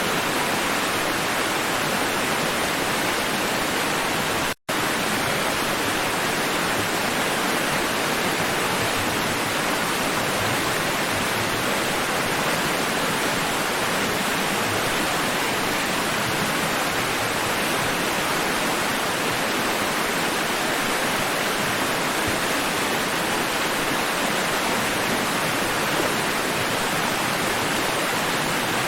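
Steady, even rush of water with no swell or surge, broken by a split-second dropout to silence about four and a half seconds in.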